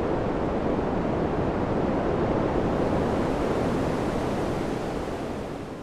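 Wind ambience: a steady, even rushing noise without distinct gusts, fading out over the last second or so.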